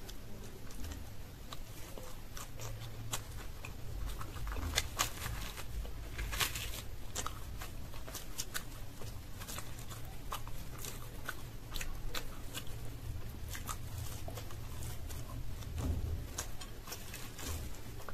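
Close-up chewing and mouth sounds of eating koraishutir kochuri (green-pea-stuffed fried bread) with dum aloo, with many irregular sharp clicks, along with fingers tearing the fried bread.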